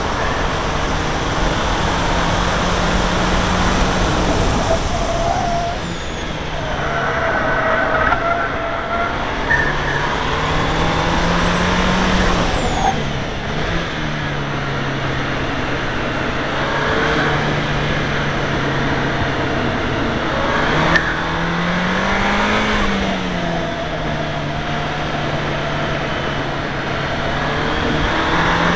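Seat Leon Cupra R engine at speed on track, with its pitch holding steady on the straights and climbing and dropping several times through the corners, under a steady rush of wind and road noise.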